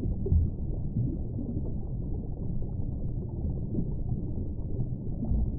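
Steady, muffled low rumbling and bubbling of water, a sound effect with no high end.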